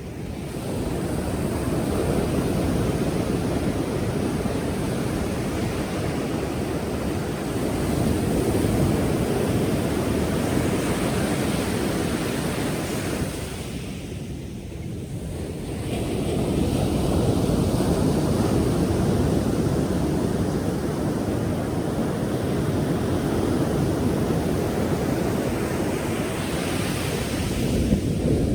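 Pacific Ocean surf: waves breaking and washing in a continuous rushing noise, easing briefly about halfway through before the next wave builds, with wind buffeting the microphone.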